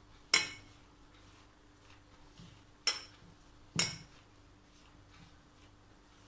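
A spoon clinking three times against a mixing bowl while flour and melted butter are stirred together, each strike short and ringing.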